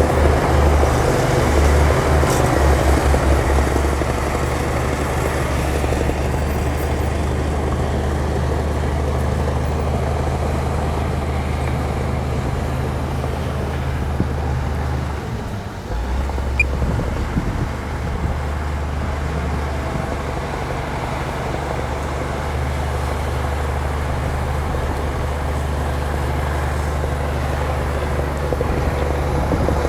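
Diesel engine of a heavy earthmoving machine running steadily with a deep hum, dropping off briefly about halfway through before picking up again, with a few light knocks at that point.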